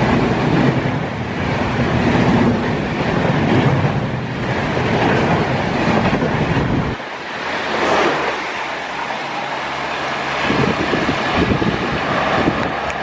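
Train running past in heavy rain: a loud, steady rumble with a low hum. About seven seconds in, the low rumble cuts off abruptly, leaving the hiss of rain and wind noise.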